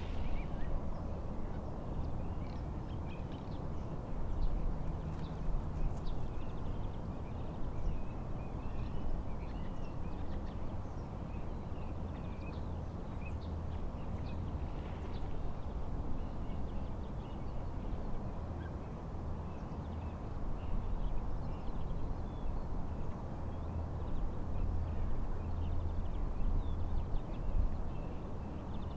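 Wind and lake waves making a steady, uneven rush, with many small birds chirping and twittering throughout.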